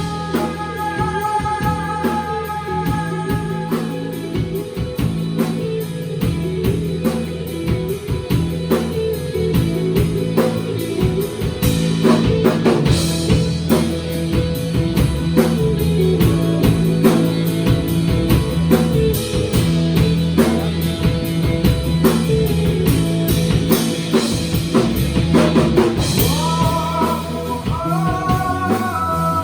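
Rock band playing live: drum kit, bass and electric guitars with a singing voice, held high notes at the start and a stepping run of notes near the end.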